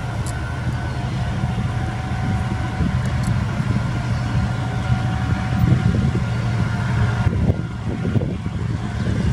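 Freight train running past, a steady heavy rumble of wheels and locomotive with a faint steady whine above it, swelling about two-thirds of the way through.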